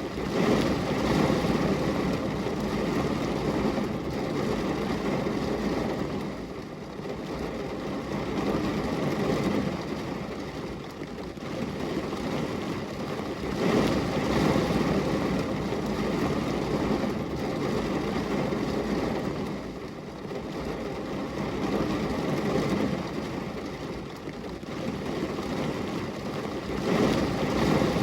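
Rain falling steadily on a glass window: a dense, even rushing sound that swells and eases every few seconds.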